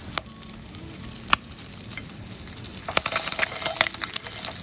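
Block of bacon sizzling over a campfire, with a few sharp clicks. The sizzle flares up louder about three seconds in, as the browned slab is turned over.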